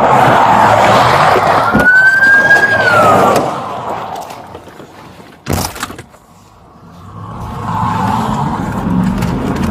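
Emergency siren on a Border Patrol pursuit vehicle wailing up and down, loud for the first three seconds or so, then fading out. A single sharp click comes about five and a half seconds in, and a steady vehicle rumble builds again near the end.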